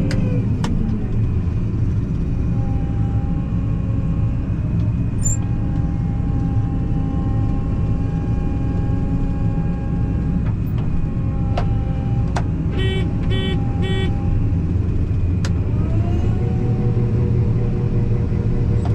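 Combine harvester engine running steadily, its note dropping just after the start and rising again near the end. Three short electronic beeps sound about two-thirds of the way through, with a few sharp clicks here and there.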